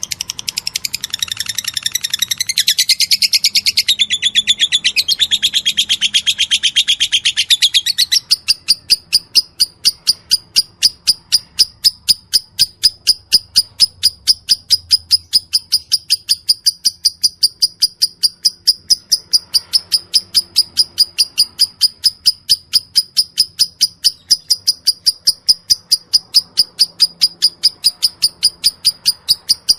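Lovebird song: dense, fast high chattering for about the first eight seconds, then a long, steady run of sharp, evenly spaced high chirps at about three to four a second.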